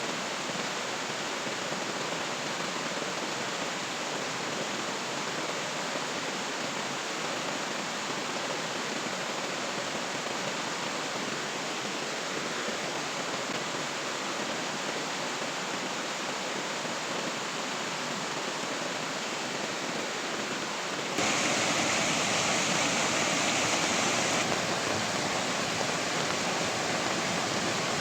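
Steady rushing water noise with no breaks. About three-quarters of the way in it abruptly grows louder and hissier for a few seconds, then eases back a little.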